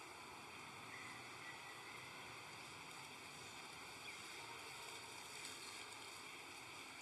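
Faint steady hiss of background noise, with a few faint short high chirps.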